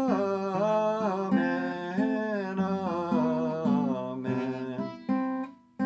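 Music: a man sings slow, held 'amen's over acoustic guitar. The sound dips to near silence briefly just before the end.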